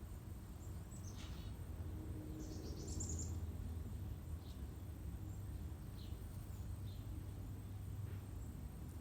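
Wild songbirds chirping: scattered short high chirps, a falling call about a second in and a quick twittering burst about three seconds in, over a steady low rumble.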